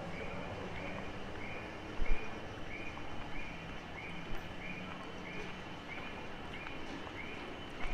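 Electronic chirping of an audible pedestrian-crossing signal, a short high chirp repeating about every 0.6 seconds, over a low steady hum of city traffic. A single thump about two seconds in.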